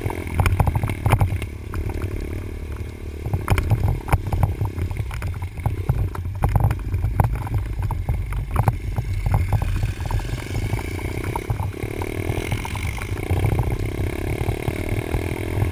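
Dirt bike engine revving up and falling off again and again while riding the track, with frequent knocks and rattles from the bike going over rough ground and a heavy low rumble.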